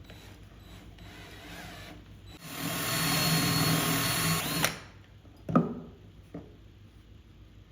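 A handheld power drill runs at speed for about two seconds and winds down as the trigger is released. A sharp knock follows, then a fainter one.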